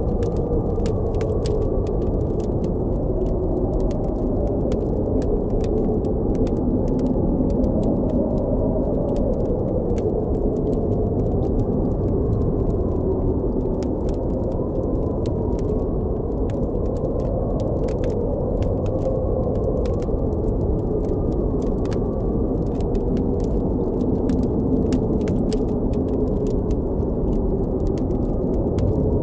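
Blizzard wind blowing steadily with a low, slowly wavering howl, while a campfire crackles with frequent small sharp pops scattered throughout.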